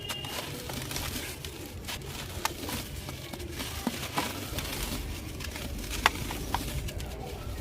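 Dry, dusty material crumbling and crunching, a run of scattered small crisp crackles with a few sharper snaps in the middle.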